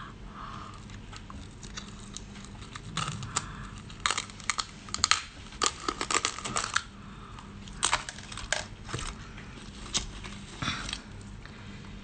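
Sea urchin shell being bitten open: a run of sharp cracks and crunches coming in irregular clusters, the loudest a few seconds in and again near the end.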